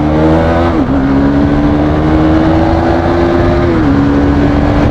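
Bajaj Pulsar NS200 single-cylinder engine pulling hard under acceleration, its note climbing steadily and dropping at two upshifts, just under a second in and near the end. Wind rushes over the microphone throughout.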